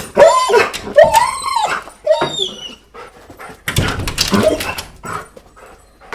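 Dog whining and crying: three high, wavering cries that bend up and then down in pitch over the first three seconds, then a rougher, noisier whimpering about four seconds in.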